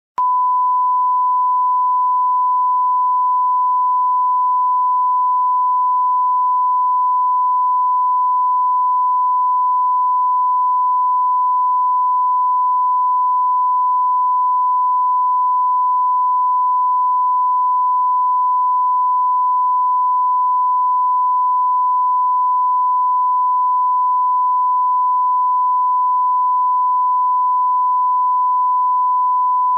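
Broadcast test tone: one pure, steady, high-pitched beep held unchanged for about thirty seconds, starting and stopping abruptly. It is the kind of line-up tone placed ahead of a TV programme.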